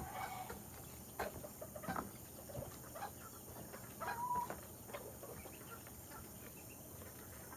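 Chickens clucking softly, with a short call near the start and another about four seconds in, and a couple of light knocks about one and two seconds in.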